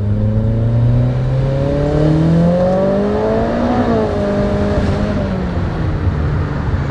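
Mitsubishi Lancer's turbocharged 4B11T four-cylinder under full throttle in a second-gear pull, revs climbing steadily for about four seconds. Then the driver eases off and the engine note drops and settles lower.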